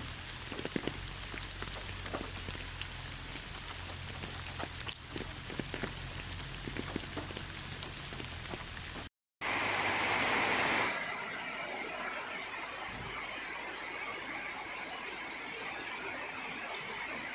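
Steady rain with many individual drops tapping. About nine seconds in the sound cuts out for a moment, then a different rain recording starts, a louder hiss at first that settles into steady rain.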